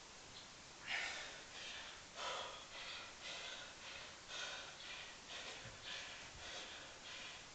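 A man's heavy breathing in quick short puffs, about one and a half a second, from exertion during a long set of pistol squats.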